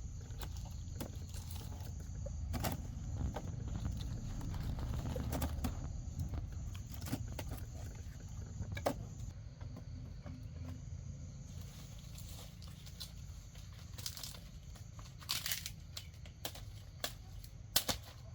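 Rustling and crinkling with scattered sharp clicks and snaps over a low steady rumble, several of the louder snaps coming near the end.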